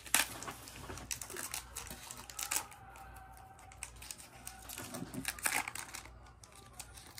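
Foil booster pack wrapper crinkling and trading cards being handled, in short, scattered rustles and clicks.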